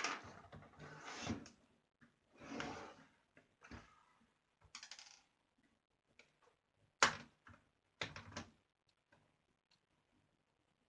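Screwdriver scraping in short turns as a screw is worked out of a laptop's plastic bottom case, then a few sharp plastic clicks and knocks about halfway through as the case is handled.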